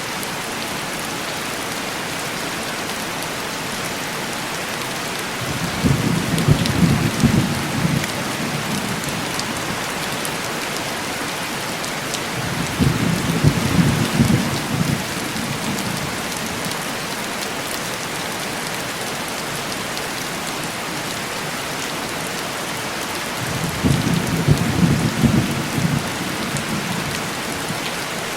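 Steady heavy rain on window glass, with three low rolls of distant thunder, each lasting two or three seconds: about six seconds in, about thirteen seconds in, and about twenty-four seconds in.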